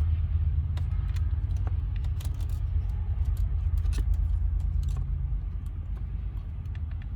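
Steady low hum of a car engine idling, with scattered light clicks and rattles as a tight dash part or connector is squeezed and worked loose.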